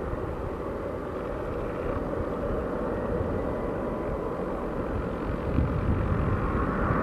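Jet engines of a Boeing 757-200 freighter at takeoff power: a steady rumble that grows gradually louder toward the end.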